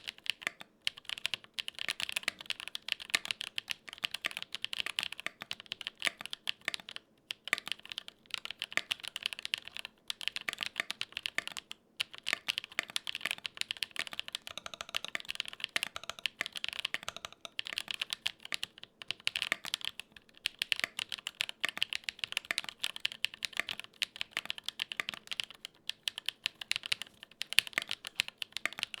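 Gok 7V 75% custom mechanical keyboard with lubed tactile switches, typed on steadily in fast runs of keystrokes broken by a few short pauses.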